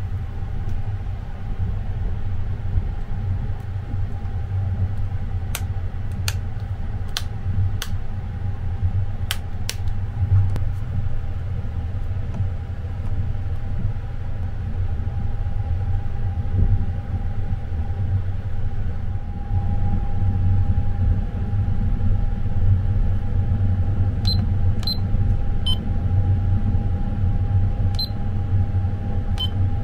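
Sunrise Izumo sleeper train running, heard inside the compartment as a steady low rumble with a constant hum. A few sharp clicks come between about five and ten seconds in. Near the end the bedside alarm clock's buttons are pressed, giving several short high beeps.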